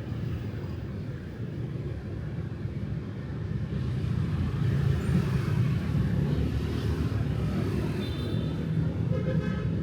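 Steady low rumble of road traffic passing on a city street, growing louder about four seconds in. Near the end a high, steady pitched sound comes in over it.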